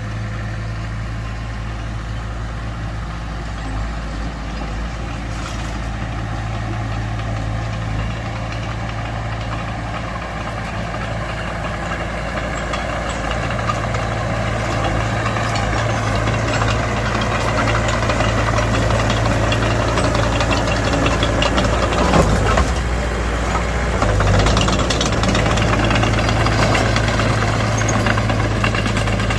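Mitsubishi BD2F bulldozer's diesel engine running steadily while working, with a rattle building up in the second half and the sound growing slowly louder.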